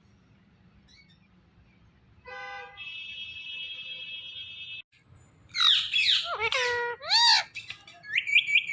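Ringneck parrot calling: a short pitched note, then a steady buzzy whistle held about two seconds, then loud sweeping squawks and whistles, ending in a run of quick rising chirps.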